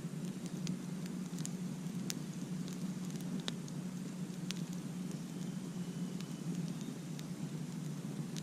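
Campfire burning: a steady low rush of flame under irregular sharp crackles and pops from the burning wood.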